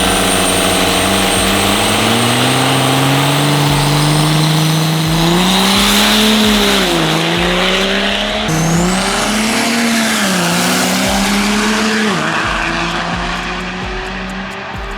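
Diesel drag-racing truck at full throttle, its engine note climbing and dropping sharply several times as it shifts up through the gears, with a high whistle above the engine. The sound fades near the end as the truck pulls away.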